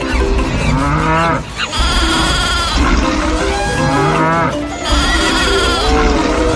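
Cattle mooing as sound effects, two similar calls about three seconds apart, over background music.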